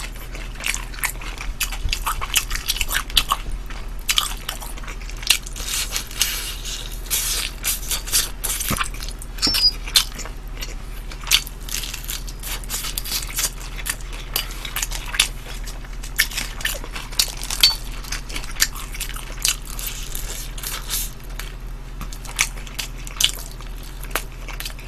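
Close-miked biting and chewing of sauce-coated fried chicken: irregular crisp crunches and wet mouth sounds, one after another.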